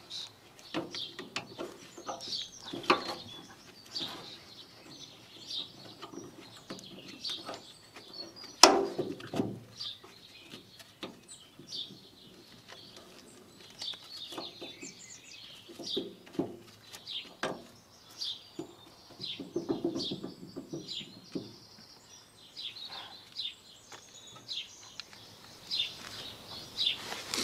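Small birds chirping on and off, with scattered clicks and knocks of metal parts being handled at the grass collector's brush-shaft clamp; one loud knock comes about nine seconds in.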